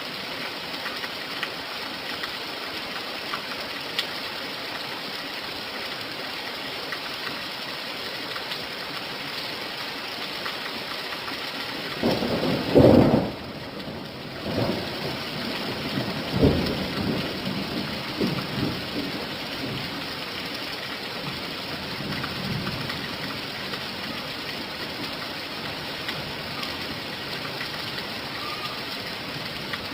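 Steady rain falling, with thunder rumbling about twelve seconds in and a second, weaker roll a few seconds later that dies away.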